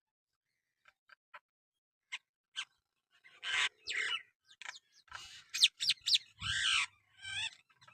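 Myna calling: a few soft clicks, then from about three seconds in a loud, rapid jumble of screechy calls and whistled notes that bend up and down.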